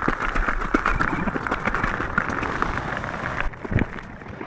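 Heavy rain pattering close to the microphone as a dense hiss of small ticks, with wind buffeting the mic; the upper hiss cuts out suddenly about three and a half seconds in.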